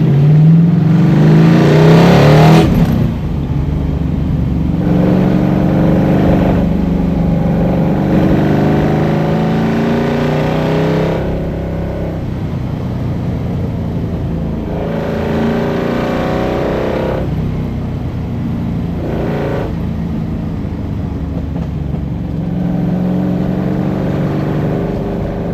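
Iso Grifo's V8 engine accelerating hard on a climb, the revs repeatedly rising and then falling at each gear change or lift-off. It is loudest about two seconds in, as the revs peak before a sharp drop just under a second later.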